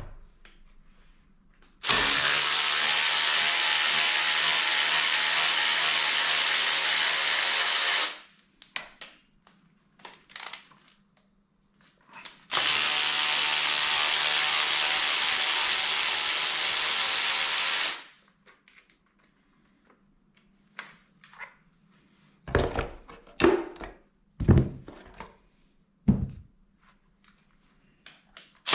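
A power tool running in two steady bursts of about six seconds each, with a few sharp knocks of metal on metal between them near the end, then the tool starting again at the very end.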